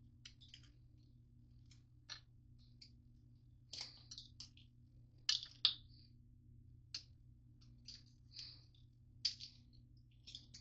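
Irregular light clicks and taps, a few louder ones around the middle, typical of a utensil knocking and scraping in a bowl as granola bars are crushed into melted butter; a low steady hum runs underneath.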